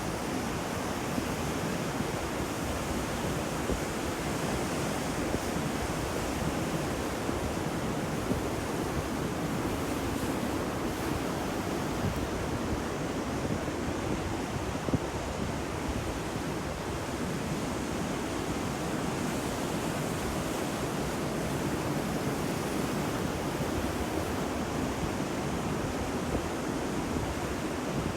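Ocean waves washing on the shore in a steady, even surf hiss, with no single wave break standing out.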